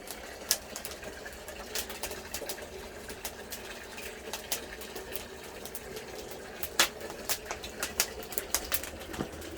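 Wood fire crackling under a cast-iron cauldron, with irregular sharp pops and snaps, a few louder ones, as the freshly lit firewood catches and draws well.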